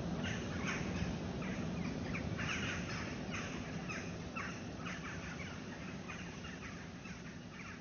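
1957 British Seagull 102 single-cylinder two-stroke outboard running steadily, with repeated harsh rasping bursts over it, about two or three a second. The whole sound gets gradually quieter.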